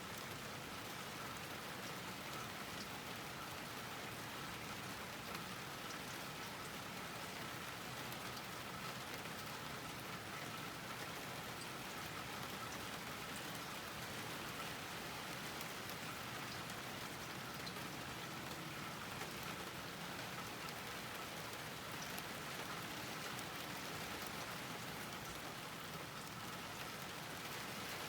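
Steady rain falling on a garden, an even hiss with the light tick of individual drops.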